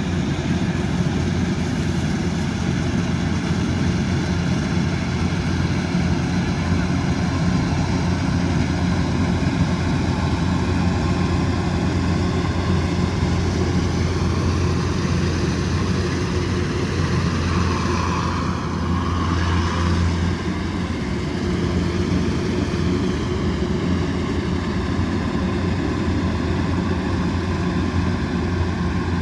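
Kubota DC108X combine harvester running steadily under load: a constant diesel-engine and machinery drone, its pitch wavering briefly around the middle.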